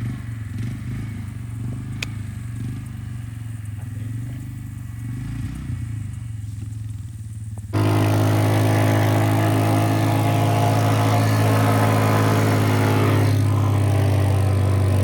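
Engine idling at a steady speed; about halfway through the sound jumps abruptly to a much louder, steady engine run, as if very close to the engine.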